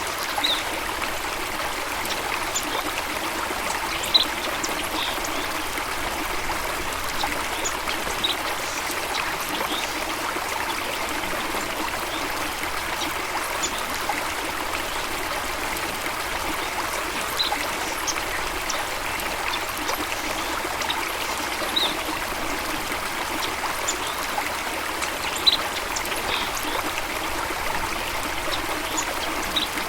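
Water running steadily over rocks in a stream or small waterfall, an even rushing sound. Short high pips are scattered through it, with two sharper clicks, one about four seconds in and one near the end.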